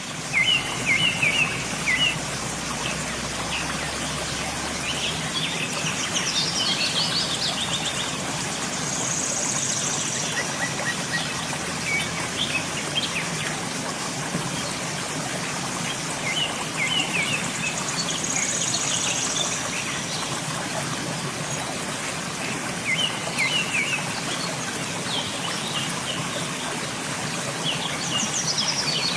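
Waterfall rushing steadily, with birds chirping in short phrases every few seconds over it, and a high, drawn-out trilling note twice.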